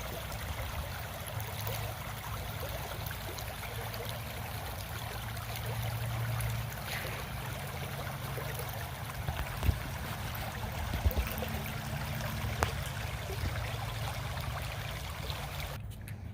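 Steady rush of running water, like a small stream, with a few soft knocks; it cuts off abruptly just before the end.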